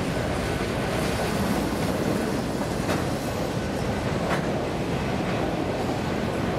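Freight train cars rolling past, a steady rumble of steel wheels on rail with a few faint clicks.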